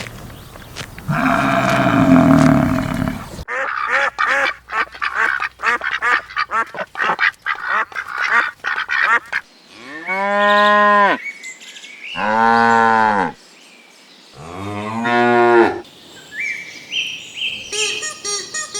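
Farm animals calling in turn. A drawn-out call comes first, then a few seconds of rapid short calls. Three separate calls follow, each about a second long, its pitch rising and then falling. Short high chirps stepping upward come near the end.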